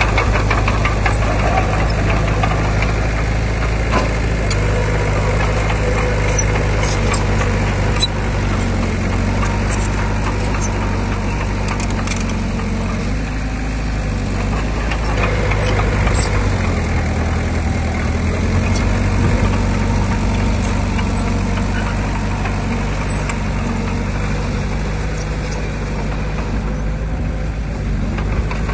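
Heavy diesel engine of earthmoving equipment running steadily. Its low drone shifts in pitch a few times, with scattered metallic clicks and clanks over it.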